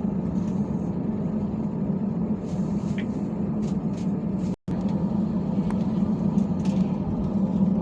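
Steady low rumble inside the cabin of an Airbus A320 after landing, with a few faint clicks and knocks. The sound drops out completely for an instant just past halfway.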